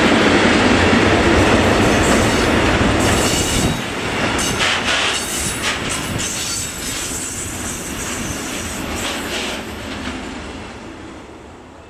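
Intermodal container freight train's wagons rolling past, the wheels clattering over the rails, with a few short high screeches from about three to five seconds in. The rolling noise dies away steadily as the last wagons pass.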